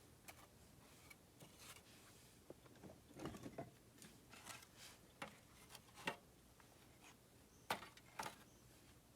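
Faint, irregular crackles and pops of a wood campfire.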